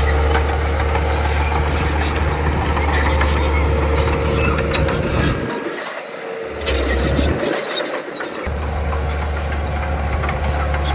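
Komatsu D31 bulldozer at work: the diesel engine runs with a deep steady drone under a clatter of track clanks and high squeaks. The deep drone drops away twice briefly in the middle.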